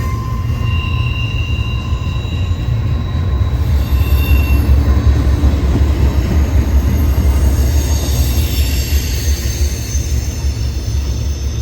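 Freight train cars rolling past with a steady low rumble, and faint high-pitched wheel squeal that comes and goes.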